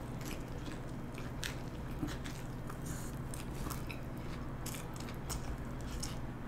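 Close-up eating sounds: a bite into a stacked veggie burger with lettuce, then chewing with irregular wet clicks and light crunches, over a steady low hum.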